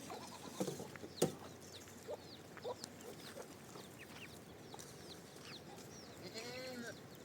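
Farm fowl calling: short high chirps scattered throughout, with a longer arching call near the end. There is a sharp knock a little over a second in.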